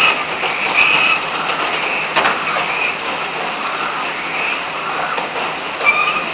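Frogs calling over steady rain: short, repeated two-toned calls, each about a third of a second long, come several times at uneven intervals over the even hiss of rainfall.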